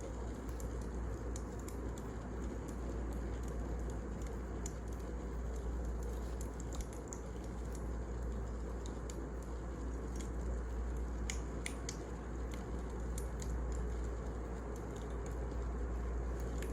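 Wood fire burning in a fireplace: a steady low rumble with scattered sharp crackles and pops, two louder pops a little past the middle.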